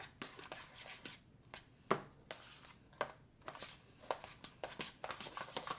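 A spoon clicking and scraping against a small container while stirring shaving cream and food colouring, with irregular sharp taps about one or two a second.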